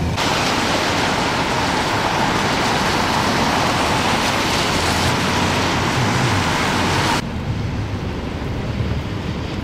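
Steady, loud hiss of road traffic in snow and slush. It cuts off abruptly about seven seconds in, leaving a lower rumble.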